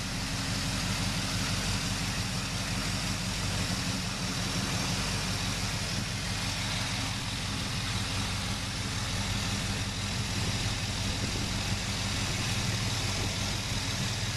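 Newly installed engine in a 1981 Chevrolet El Camino idling steadily, with no revving.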